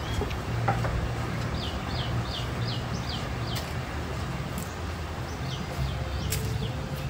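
A bird calling repeatedly in short, quickly falling high notes, about five in a fast run around two seconds in and a few more scattered later, over a steady low outdoor rumble.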